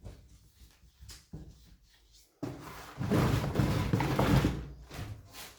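Potting mix being pressed and packed down hard into a plant pot around an orchid's roots: a few faint clicks, then from about two and a half seconds in a loud stretch of crunching and scraping that dies away near the end.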